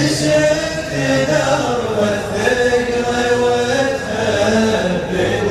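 Gulf Arabic sheela: a male voice chanting a melodic poem line, with layered vocal backing and no instruments apparent.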